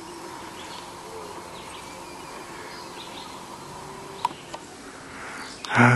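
Open-air lake ambience with faint bird calls and a couple of light knocks about four seconds in. Near the end a loud, pitched human vocal sound cuts in.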